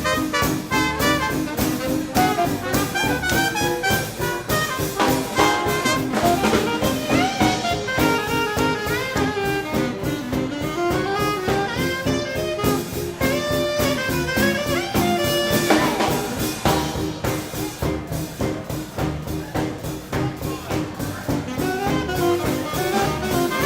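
Live swing band playing an instrumental passage: saxophone and brass lines over a steady drum-kit beat.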